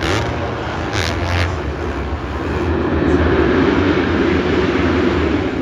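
Supercross dirt bike engines running on the track, a continuous loud engine noise that swells louder for a couple of seconds in the middle.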